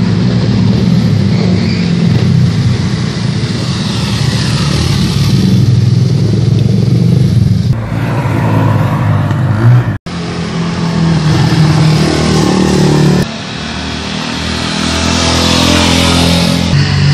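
Motorcycle engines running loud and revving; the sound changes abruptly a few times.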